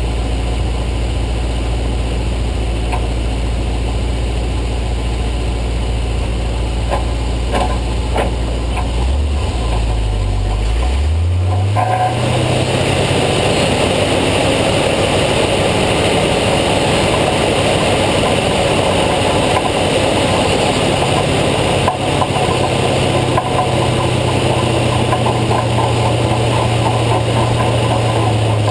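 Tow truck engine running steadily. About ten seconds in, its note rises as the truck speeds up, then holds steady under a louder rushing noise.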